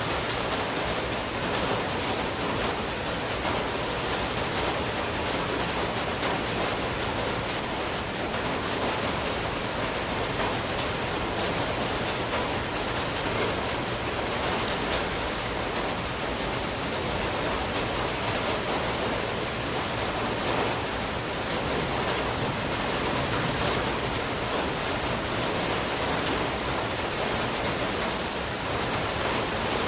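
Heavy monsoon rain falling steadily, a constant even hiss with faint patter of drops.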